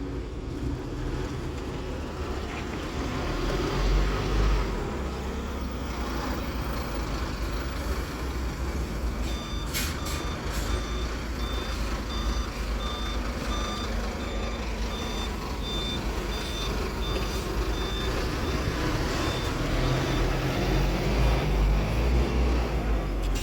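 Scania K280UB city bus's diesel engine running under way, with a steady low rumble that swells in places. About halfway through, a high electronic warning beep repeats for several seconds, after a couple of sharp clicks.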